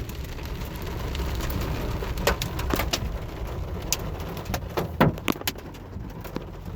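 Hailstones up to golf-ball size striking a truck, heard as scattered sharp knocks at irregular intervals that come more often after the first couple of seconds, over a steady low rumble.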